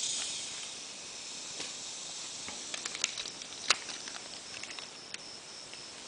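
Small toy trucks being handled and set aside: scattered light clicks and taps over a soft steady hiss, the sharpest tap about three and a half seconds in.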